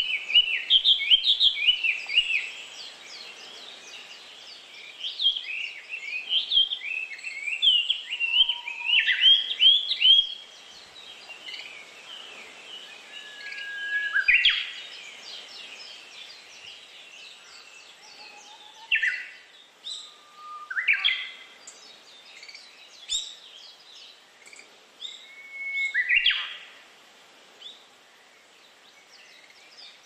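Songbirds singing and calling: a dense run of rapid, twittering chirps for the first ten seconds, then scattered sharp down-slurred calls and a few short whistles, over a faint steady background hiss.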